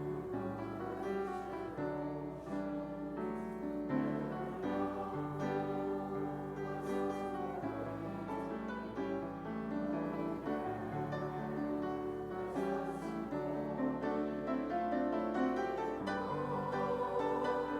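Instrumental church music played on piano, a slow run of chords and melody.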